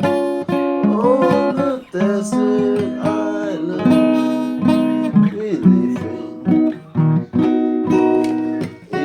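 Acoustic guitar music with plucked and strummed notes and a singing voice over it.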